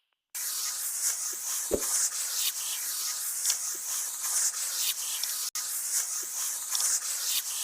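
Colour pencil scratching across paper in quick, back-and-forth colouring strokes, with a single light tap about two seconds in.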